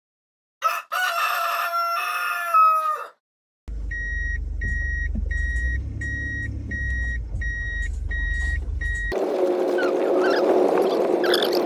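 A rooster crowing once, its call falling in pitch at the end. After a short silence comes a low rumble with a repeating electronic beep, about nine beeps at a steady pace. That cuts to a steady noisy sound with two low hums.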